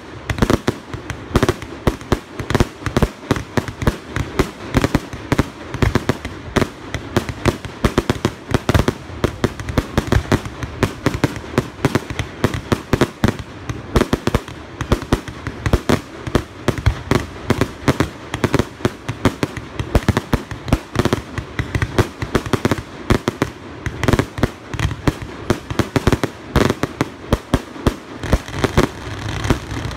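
Fireworks display going off in a dense, unbroken barrage: several sharp bangs and crackles a second, one on top of the next, with no let-up.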